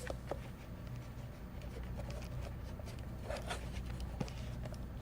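Faint rustling and small clicks over a steady low hum, with a brief cluster of rustling about three and a half seconds in.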